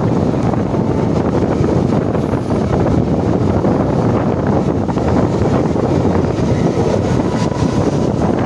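Mumbai local electric train running along the track, heard from its open doorway: a steady rumble of the wheels on the rails with wind buffeting the microphone.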